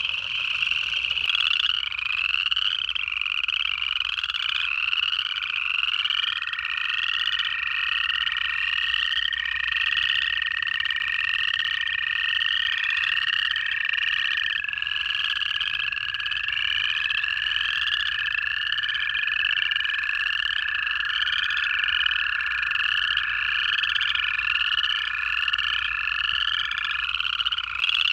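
A dense pond chorus of upland chorus frogs, their rising trills repeating over and over without a break. American toads join in with long, steady, even trills: one starts about six seconds in, and others overlap it later.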